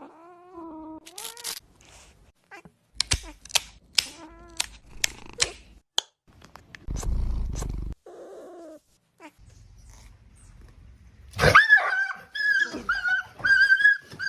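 Cat calls, short and wavering, with some clicks between them. About eleven seconds in, a dog starts whimpering in high, repeated whines.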